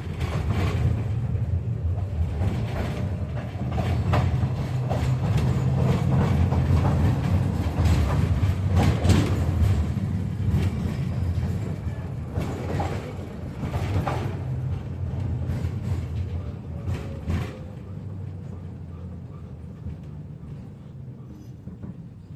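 KTM-5M3 tram running along its track, heard from inside the car: a steady low rumble of the running gear with scattered clicks and knocks from the rails. It builds over the first several seconds, then grows gradually quieter through the second half.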